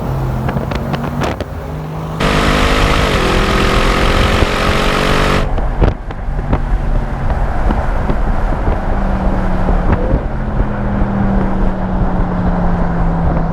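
Bentley Continental GT V8 S's twin-turbo 4.0-litre V8 exhaust, pulling hard for a few seconds, then coming off the throttle with a few sharp cracks and settling into a steady, low drone.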